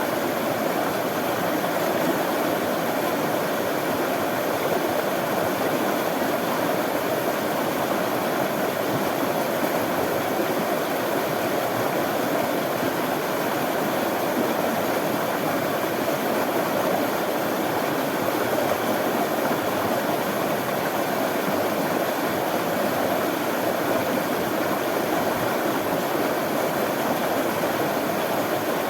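Running water flowing steadily, an even, unbroken rush like a stream.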